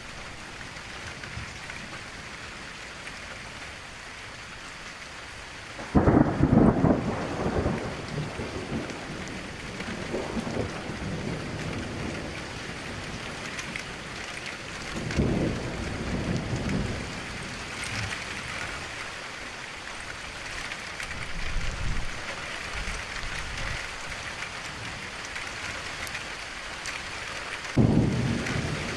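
Steady rain pattering against a window, with rolls of thunder: a sudden loud peal about six seconds in that rumbles on for several seconds, a weaker roll around fifteen seconds, and another sudden loud one near the end.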